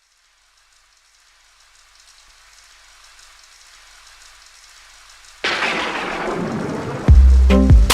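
Rain sound effect with a hiss that fades in, then a sudden thunderclap about five seconds in that rumbles away. Near the end the song's music cuts in with a heavy bass beat.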